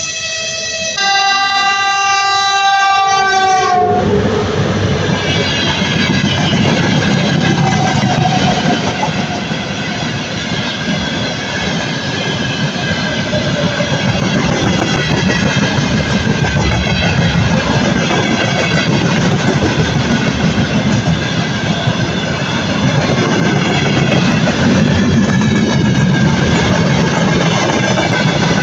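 VL80S electric locomotive sounding its horn for about four seconds, the chord changing pitch about a second in and dropping just before it stops. Then its freight train rolls past, the wagons' wheelsets rumbling and clacking over the rail joints.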